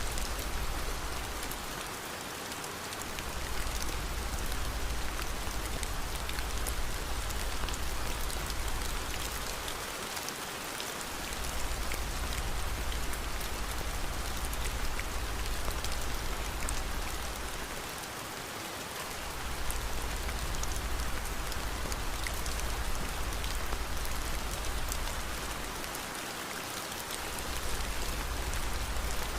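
Steady rain falling, an even hiss with faint patter. A deep rumble underneath drops away for about a second roughly every eight seconds.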